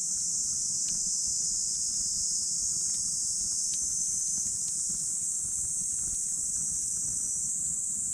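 Steady high-pitched chorus of singing insects over a wood campfire, which gives a few faint scattered crackles and pops.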